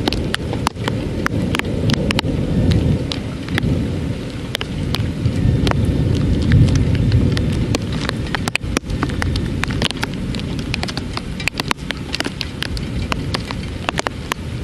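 Heavy thunderstorm rain, with many drops striking close by as sharp taps, over a low thunder rumble that swells twice, loudest about six to seven seconds in.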